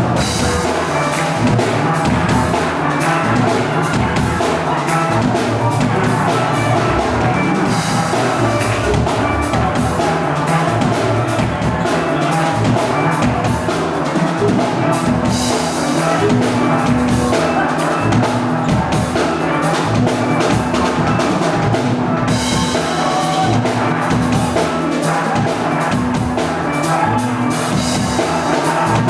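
A steel orchestra playing: steelpans carrying the notes over a drum kit keeping a steady beat.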